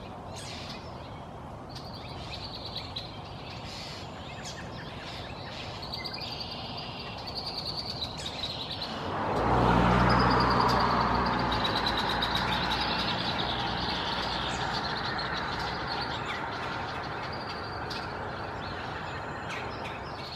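Red-winged blackbirds chirping and calling repeatedly. About halfway through, a passing vehicle's road noise swells in and becomes the loudest sound, then slowly fades under the birds.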